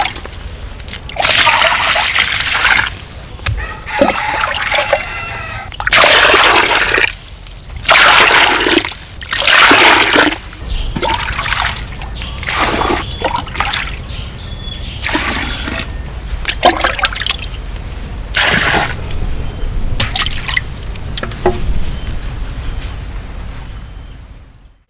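Water splashing and sloshing in repeated bursts of about a second each. A steady high-pitched tone joins about ten seconds in.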